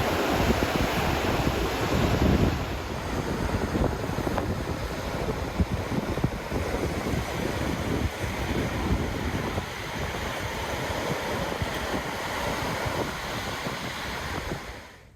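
Surf on a beach with gusty wind buffeting the microphone, fading out near the end.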